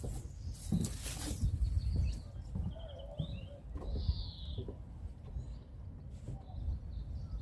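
Small birds calling outdoors: a few short high chirps and a quick little trill, over a low rumble.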